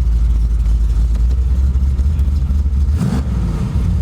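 Car engine running steadily with a deep rumble, with a brief louder blip about three seconds in; the engine has a leaking exhaust header.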